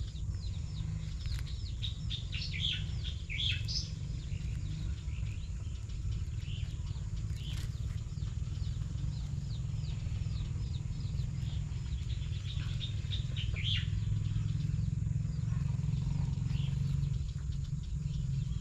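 Small birds chirping in rapid runs of short, falling chirps, thickest in the first few seconds and again in the middle, over a steady low rumble.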